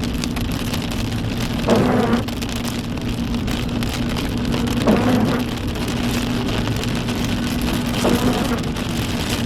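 Car cabin while driving: steady engine and road hum with rain on the car. A brief swelling sound comes back about every three seconds.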